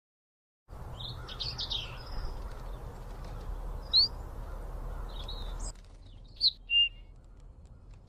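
Small birds chirping over a woodland background hum, with short high chirps and one quick rising chirp about halfway through. The background drops away near the two-thirds mark, leaving two louder, clear chirps.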